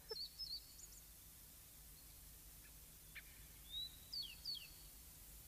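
Faint bird chirps: a few short, high calls right at the start and again about four seconds in, the later ones rising and then dropping sharply.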